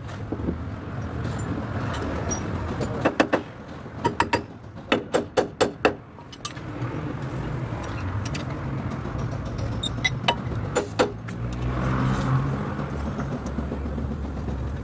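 A vehicle engine running steadily, with a series of sharp clicks and knocks, clustered about three to six seconds in and again about ten to eleven seconds in.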